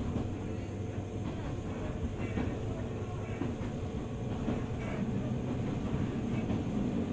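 205 series 600-subseries electric train running along the track: a steady low rumble of wheels on rail, with scattered light clicks from the rails and a slight rise in loudness toward the end.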